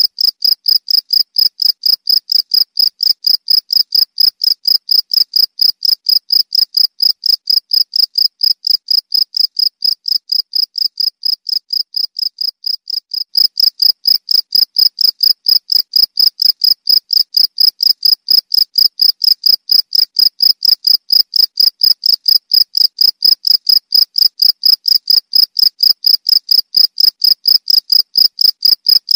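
Cricket chirping steadily in a fast, even rhythm of high-pitched pulses, about three a second. The level steps up slightly about halfway through.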